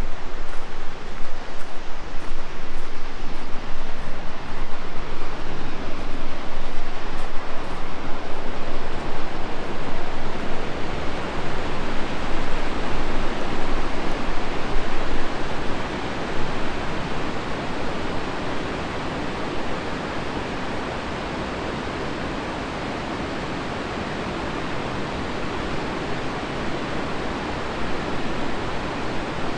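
Rushing white water of a river or waterfall, a steady, loud rush of noise; it is uneven in the first half and settles to a smoother, slightly quieter rush about halfway through.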